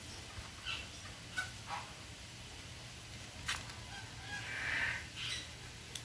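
A few short, high bird calls, the longest about four and a half seconds in, mixed with several sharp clicks over a steady low rumble.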